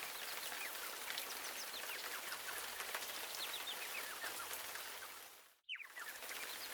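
Rain sound effect: a steady hiss of falling rain dotted with many short, quick falling high notes. It fades out about five and a half seconds in and comes back moments later.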